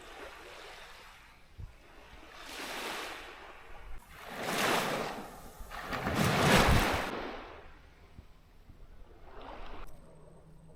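Water washing in surges, like small waves breaking and running up: three swells of rushing noise a second or two apart, the third the loudest, then a weaker one near the end.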